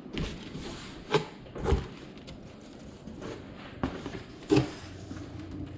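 A headlight box being unboxed by hand, with handling and rustling and several sharp knocks and bumps, the loudest about four and a half seconds in.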